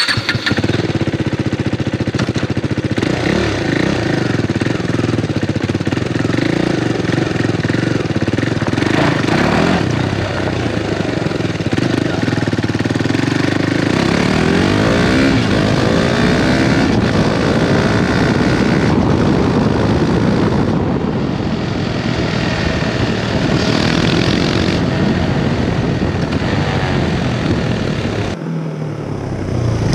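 KTM 390 Duke's single-cylinder engine running loudly through its exhaust, its pitch rising and falling around the middle. The sound changes abruptly just before the end.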